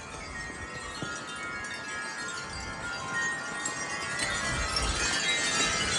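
Wind chimes ringing in gusty wind: many overlapping, sustained tones. The wind is howling and the noise grows steadily louder toward the end.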